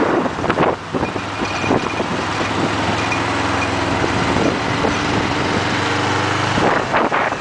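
Motorcycle engine running at a steady pitch under rushing wind noise on the microphone. The engine hum stands out clearly from about two seconds in and drops back under the wind shortly before the end.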